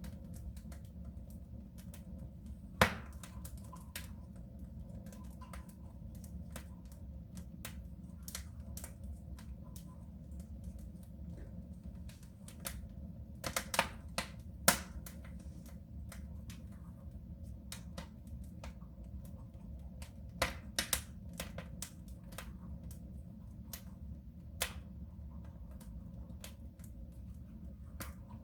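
Wood fire burning in a soapstone stove: irregular sharp crackles and pops over a steady low rumble, with a cluster of louder pops about halfway through.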